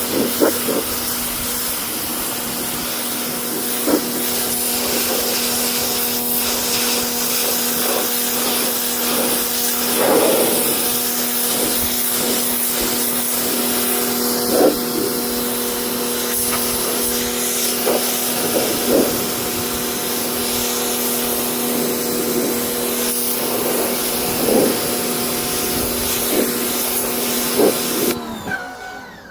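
Pressure washer running steadily, its motor humming under a hiss of water spray on car carpet. It shuts off suddenly near the end.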